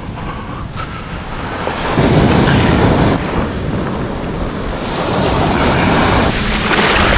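Ocean surf breaking and washing up the shore, with wind buffeting the microphone; a wave surges in about two seconds in and the wash stays louder after it.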